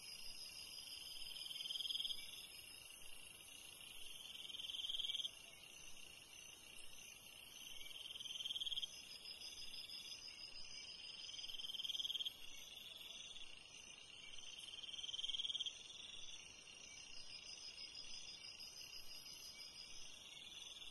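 Faint chorus of night-calling insects: a steady high trill, with a lower call that swells and cuts off abruptly about every three and a half seconds.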